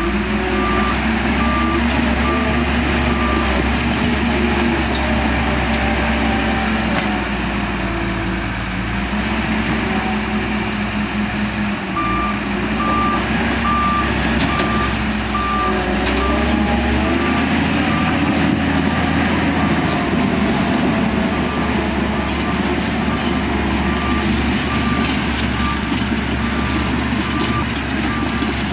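Heavy earthmoving machinery's diesel engine running steadily, shifting pitch as it works. A reversing alarm beeps about twice a second in three spells: at the start, around the middle, and through the last third.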